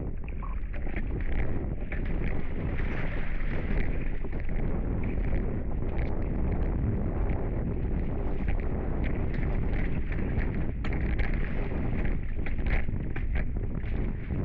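Steady wind noise on the microphone, with water rushing past a Hobie 16 catamaran under sail.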